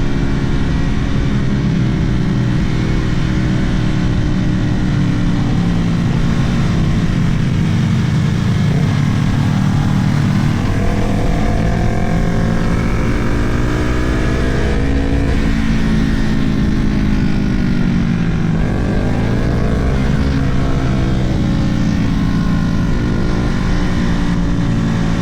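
Sport motorcycle engine under hard riding, its pitch climbing with the revs and dropping back at each gear change several times, over a steady rumble of wind on the camera microphone.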